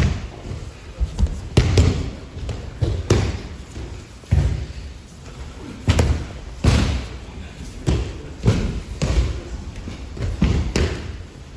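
Aikido practitioners falling and stepping on mats: repeated, irregular dull thuds of bodies landing in breakfalls, about one or two a second.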